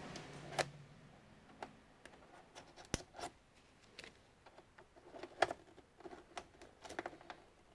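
Scattered light clicks and scrapes of plastic parts and a tool being worked at while prying apart an all-in-one computer's case, irregular, with a few sharper snaps about three and five and a half seconds in.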